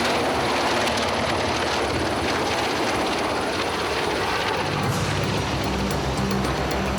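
Helicopter's rotor and turbine engines running with a steady rush of noise.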